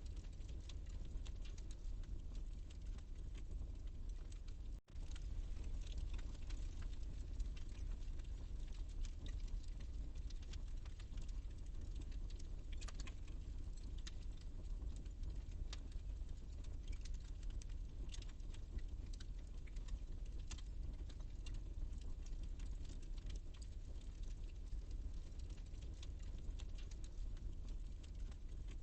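Wood fire burning in a fireplace, crackling with many small irregular pops over a steady low rumble. The sound drops out for an instant about five seconds in.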